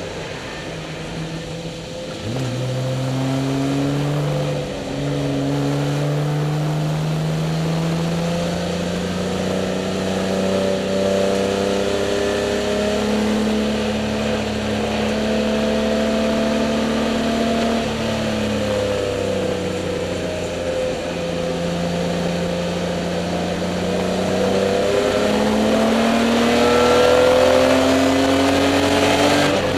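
BMW E30 race car's 2.5-litre straight-six engine, heard from inside the stripped cabin under hard acceleration. It revs up through the gears, with a shift about two seconds in, and holds high revs through the middle. It drops off about two-thirds of the way through as the driver lifts for a corner, then climbs again near the end.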